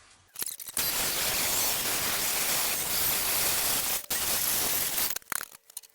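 Power tool cutting through a piece of metal stock: a harsh, steady noise that starts just under a second in, breaks for an instant about four seconds in, and stops about a second before the end, with a few clicks around it.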